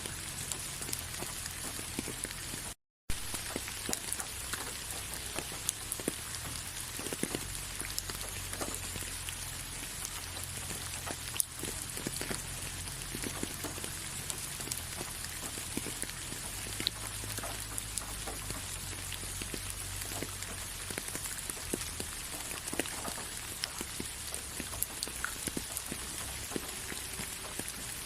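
Steady rain falling, a continuous hiss dotted with many separate drop clicks. It cuts out completely for a split second about three seconds in.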